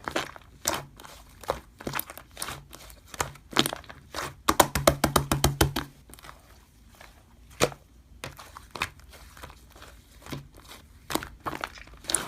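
Slime being pressed and poked, making sharp clicks and pops, with a dense run of crackling clicks about four to six seconds in.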